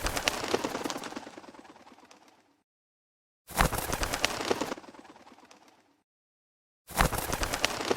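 Wood fire crackling and popping in three separate bursts about three and a half seconds apart, each starting suddenly and fading away over a couple of seconds, with dead silence between them.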